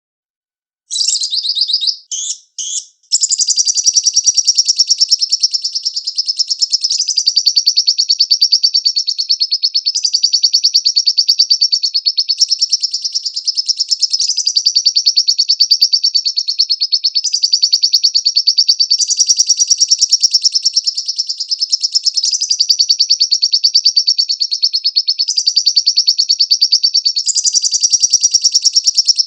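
Lovebird singing: a few short high calls about a second in, then one long, very fast, high-pitched chattering trill that runs on without a break, rising and falling in strength every few seconds.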